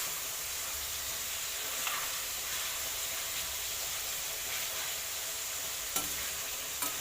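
Chicken pieces frying slowly in oil on low heat, a steady sizzle, with two brief knocks near the end.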